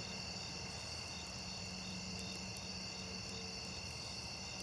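Crickets chirping steadily in a continuous night chorus, with faint scattered crackles from a bonfire and a low steady hum underneath.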